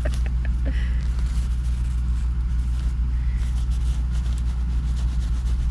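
A steady low machine hum fills the cab of a semi-truck, even in level throughout, with a few faint clicks and soft rustles from a cat playing in a crinkle tunnel.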